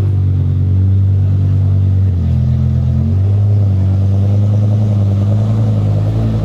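BMW M5's 5.0-litre V10 running through a Botter aftermarket exhaust, loud and deep, its note rising and falling in steps as the throttle is worked.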